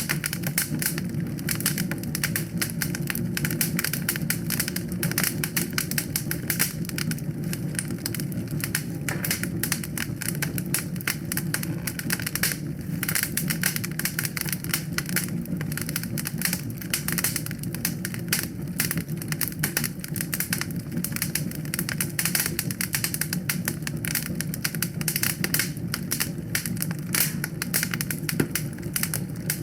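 Wood fire burning in a fireplace: dense, irregular crackling and popping over a steady low rumble of the flames.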